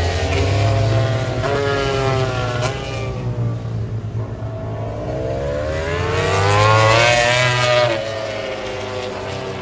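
MotoGP race motorcycles' four-cylinder engines revving hard as the bikes pass at speed, pitch climbing through the gears. The loudest pass comes about seven seconds in, its pitch rising and then dropping away as it goes by.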